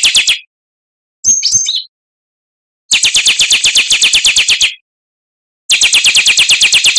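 Oriental magpie-robin (kacer) song: bursts of fast, evenly repeated sharp notes, about nine a second, each burst lasting up to two seconds. One short, higher, varied phrase comes about a second in, and there are dead-silent gaps between the phrases.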